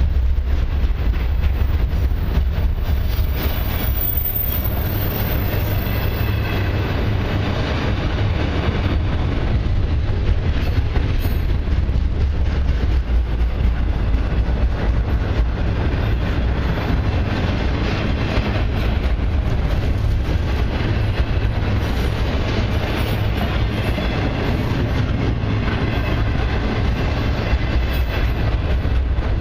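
Enclosed autorack freight cars of a passing freight train rolling by close up: a steady, unbroken rumble of steel wheels on the rails.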